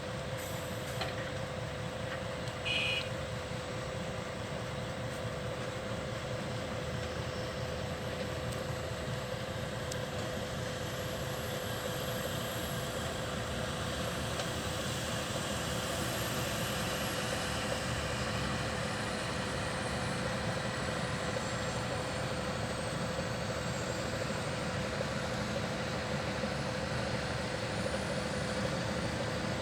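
Volvo A25E articulated dump truck's diesel engine running steadily, with one brief high beep about three seconds in.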